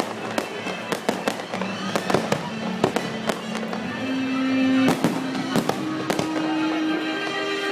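Fireworks display: aerial shells bursting in a rapid series of sharp bangs and crackles, over music playing.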